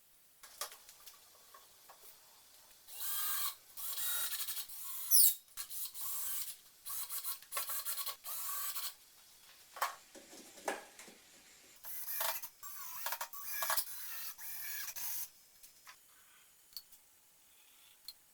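Intermittent scraping and rubbing noises in bursts of a second or so, with a quick rising squeak about five seconds in.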